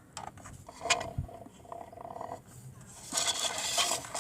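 Toy washing machine with bricks inside: scraping and rattling over a faint steady motor hum, with a thump about a second in, then a denser, louder grinding rasp from about three seconds in.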